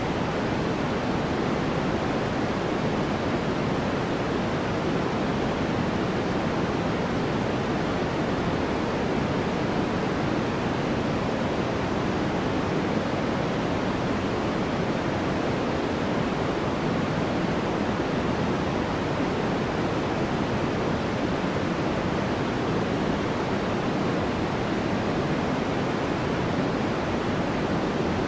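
Steady white noise for sleep: an even, unchanging rushing hiss, weighted toward the low-mid range rather than bright, with no rhythm or breaks.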